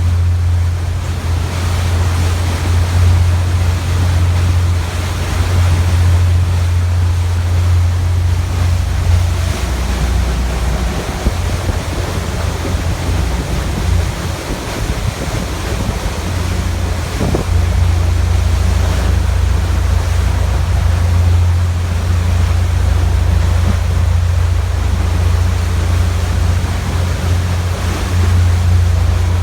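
Boat under way at sea: a steady low engine drone under rushing water and wind buffeting the microphone.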